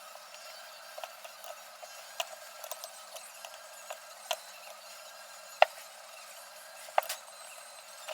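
Scattered light clicks and taps of tools and parts being handled during brake work, with two sharper knocks about five and a half and seven seconds in.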